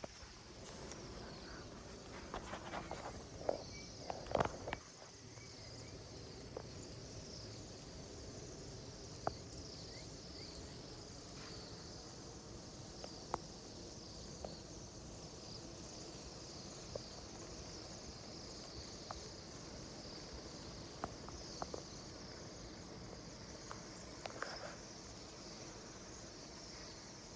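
A large flock of small birds chirping and twittering all at once in a continuous high chatter. There are a few rustling, handling noises in the first seconds and occasional clicks.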